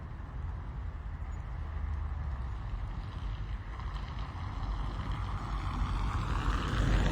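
Rain on a car heard from inside, over a low steady rumble; a hiss swells through the second half and is loudest near the end.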